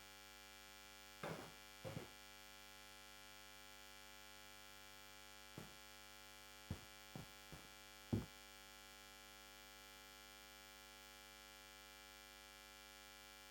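Near silence over a steady electrical mains hum, with a few faint, brief knocks or rustles.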